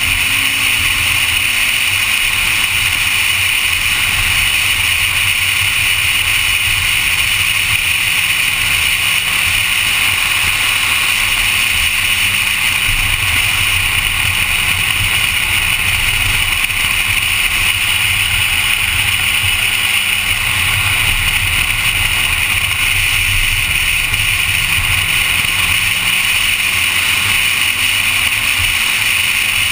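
Honda Civic engine running hard on a race track lap, its pitch rising and falling slowly as the car accelerates and shifts, under a loud, steady rushing of wind and road noise.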